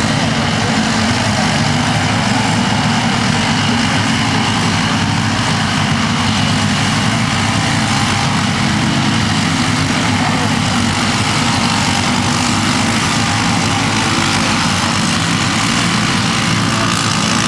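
A field of small off-road race karts (mini trucks) running together on a dirt track, a steady mass of engine noise with no single engine standing out.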